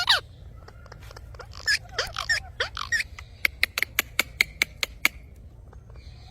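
Lovebirds giving a few short, squeaky chirps, then a quick run of sharp clicks lasting about a second and a half.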